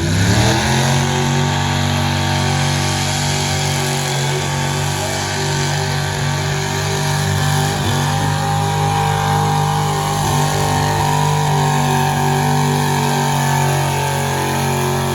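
A pulling truck's engine revs up sharply and then holds at high, steady revs under load while it drags the weighted sled down the track. A higher-pitched whine joins in about halfway through.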